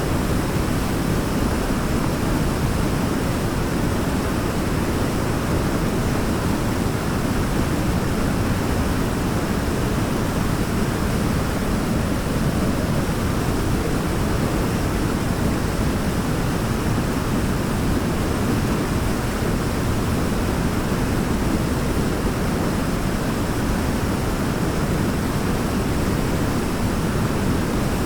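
Waterfall pouring, a steady deep rush of water with no breaks.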